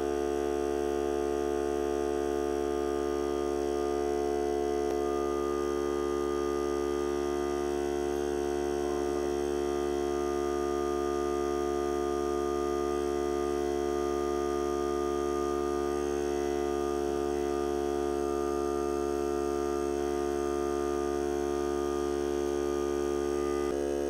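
Hart cordless air compressor running steadily: a constant motor-and-pump hum made of several steady tones, with no change in pitch or level.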